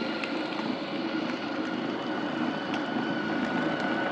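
Small vehicle motor running at a steady speed, a high whine held level after speeding up just before.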